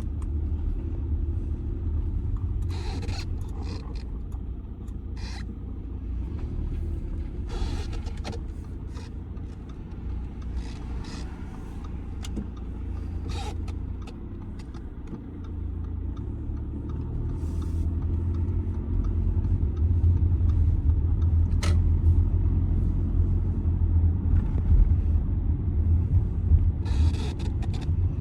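Audi A6 C6 2.0 TDI four-cylinder diesel car on the move: a steady low engine and road rumble that grows louder a little past the middle, with a few short higher noises now and then.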